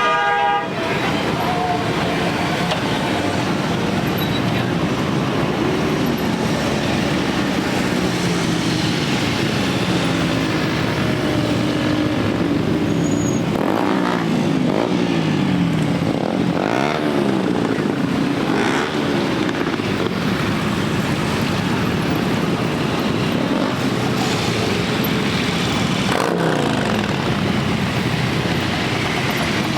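A stream of motorcycles riding past in a parade, many engines overlapping, with repeated revs rising and falling in pitch as bikes pass.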